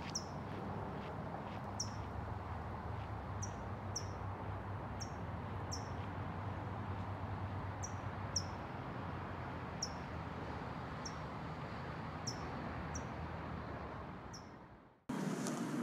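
A bird repeating short, high, downward-sweeping chips about once or twice a second over a steady outdoor hiss. Near the end the sound fades out and gives way to a louder wind-like rush.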